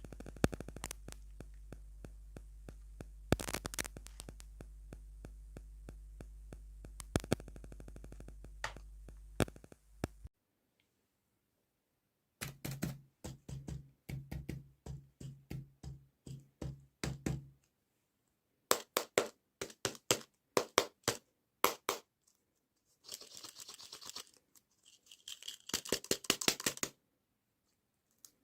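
Close-miked mukbang eating and food-handling sounds in short bursts with gaps: taps and clicks, then a run of regular chewing or crunching strokes about three a second. Near the end comes a stretch of crackly crinkling and tearing, like a wrapper being opened.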